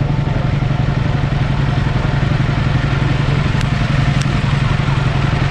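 Motorcycle engine running at a steady pitch, its rapid firing pulses over a constant rushing noise, with a couple of faint clicks about midway.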